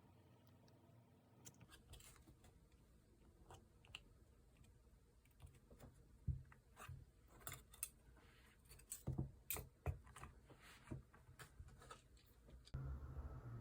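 Faint, irregular small clicks, taps and short rustles of paper and stationery being handled during journal decorating.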